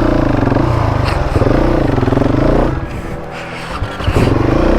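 Husqvarna 701 Enduro's single-cylinder engine revving up and down under changing throttle on rough ground. About three seconds in the throttle eases off and the engine drops quieter for about a second, then picks up again, with a couple of short knocks from the bike.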